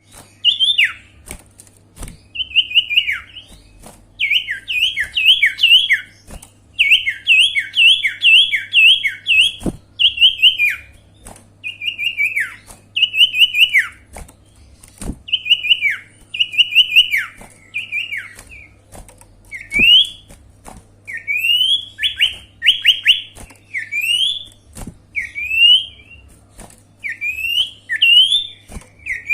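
Song of the bird called sirtu in Indonesia, played as a lure call: quick series of sharp whistled notes that sweep downward, turning to upward-slurred notes in the second half. Sharp clicks are scattered throughout over a steady low hum.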